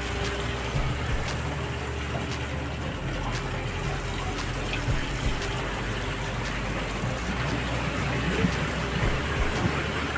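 Steady rush of seawater pouring into live-fish holding tanks, with a low steady hum underneath.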